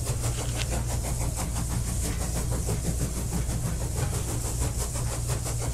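Locomotive running steadily: a low, even engine hum with a fast, regular pulse over it.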